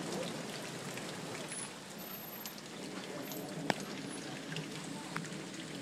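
Hailstorm coming down: a steady hiss of falling hail and rain, with scattered sharp ticks of stones striking and one louder knock about three and a half seconds in.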